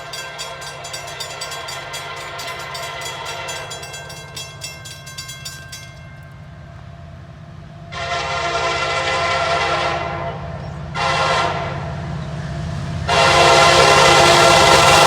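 A Nathan K5LA five-chime air horn on a Norfolk Southern SD70ACC diesel locomotive sounds a long blast, a short one, then another long, louder one near the end, typical of the signal for a road crossing. Fainter horn tones come before, and the diesel engine's steady rumble runs underneath.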